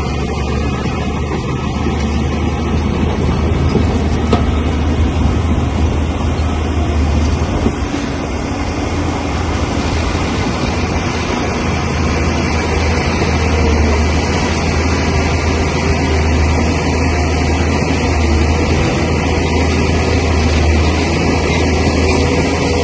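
Bulldozer's heavy diesel engine running steadily with a continuous low drone, its level easing briefly about eight seconds in.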